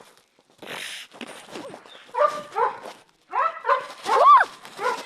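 A dog whining and yelping in a string of short, high calls that rise and fall in pitch, the loudest near the end, with a brief hiss under a second in.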